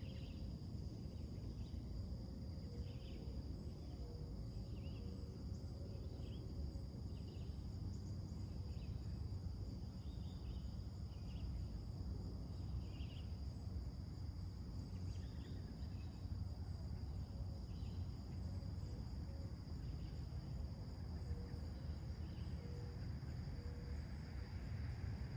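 Morning outdoor soundscape: a steady high insect drone, like crickets, with short bird chirps repeating about once a second, over a steady low background rumble.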